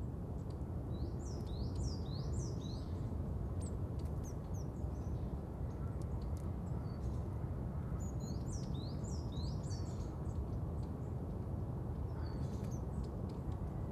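Birds chirping in quick runs of short high notes, in several spells, over a steady low rumble of outdoor ambience.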